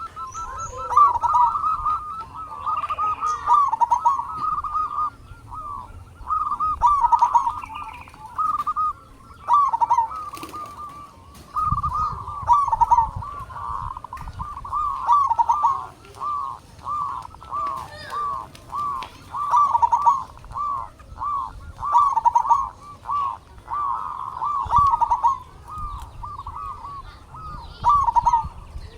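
Zebra dove (perkutut) cooing. It sings long runs of short, quick, repeated notes with brief pauses between phrases.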